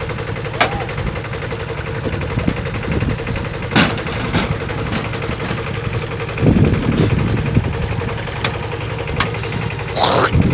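Tractor diesel engine running under load with a fast, hard knocking beat and a steady hum, growing rougher about six and a half seconds in and again near the end, with a few sharp clicks or clanks.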